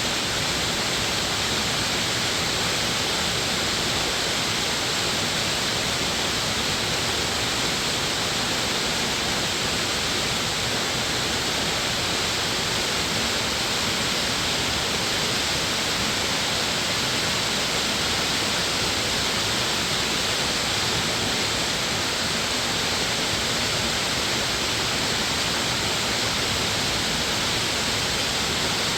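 Rushing water of a mountain valley stream, falls and rapids, giving a steady, even hiss that does not change.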